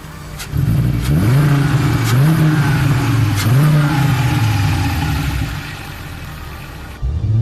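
Seat Toledo's 2.3-litre VR5 five-cylinder engine accelerating: after a quiet first half second it comes in loud, its pitch climbing and dropping back twice, then holding steady and easing off before picking up sharply again near the end.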